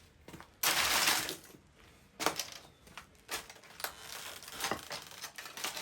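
Parts of a microwave-burnt laptop being pried and snapped apart by hand, plastic and metal cracking and clicking. There is a rasping scrape about half a second in, then scattered sharp clicks and cracks.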